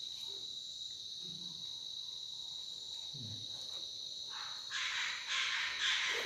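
Insects, likely crickets, trilling steadily in a high, even tone. About two-thirds of the way in, a louder rasping call joins, pulsing about twice a second.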